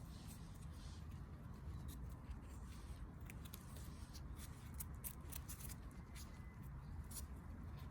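Crisp rustling and crackling of forest-floor litter, a run of short sharp crackles bunched in the middle, over a low steady rumble.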